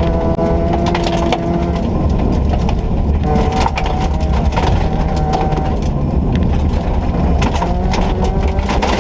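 Ford Ka rally car's 1400 cc engine running under load, heard from inside the car, its pitch shifting a few times, over a steady low drone with frequent sharp clicks and knocks.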